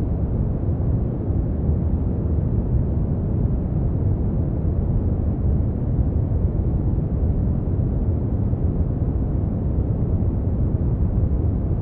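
Steady synthetic brown noise: a deep, even rumble-like hiss, strongest in the bass and rolling off toward the treble, with no change or events.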